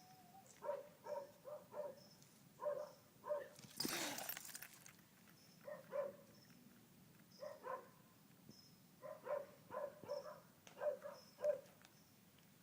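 A small dog barking in short, high yips, often in quick runs of two to four. About four seconds in there is a brief, loud burst of hissing noise.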